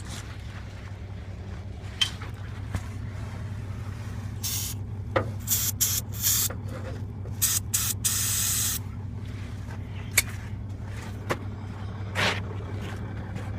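Aerosol can of ether starting fluid being sprayed for a cold start of a Case IH MXM 190 tractor below freezing: several short hissing bursts, then one longer burst of about a second.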